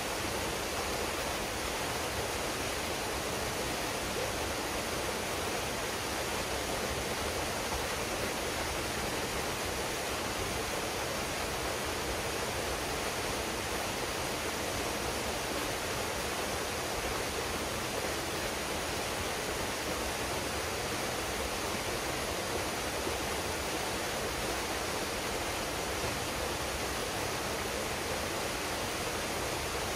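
Waterfall pouring into a pool: a steady, even rush of falling water with no breaks.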